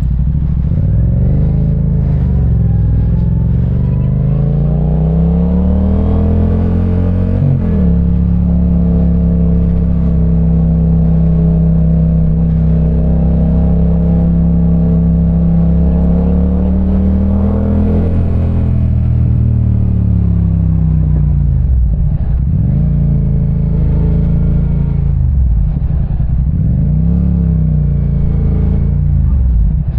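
Parallel-twin motorcycle engine under way, heard from on board: it pulls up in revs, drops sharply at a gear change about seven seconds in, holds a steady cruise, then eases off and picks up again several times near the end.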